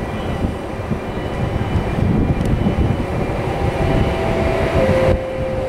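Electric train running in the station: a steady low rumble, with a faint whine appearing about four seconds in that steps down in pitch.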